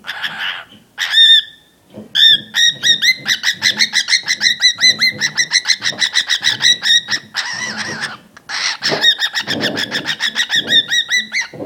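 Angry cockatiel giving a rapid, stuttering string of shrill chirps, about six a second, the bird's "machine gun noise". The string breaks briefly in the middle for a short hiss-like burst, then resumes.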